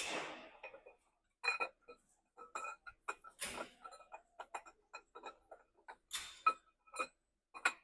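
Metal tools and parts clinking and tapping: an irregular run of light strikes with a short ringing tone, with a few brief scrapes among them.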